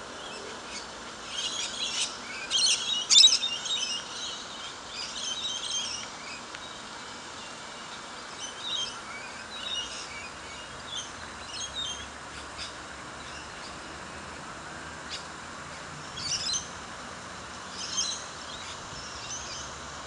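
Birds chirping and calling in short, scattered bursts, busiest and loudest about two to three seconds in and then sparser, over a steady background hiss.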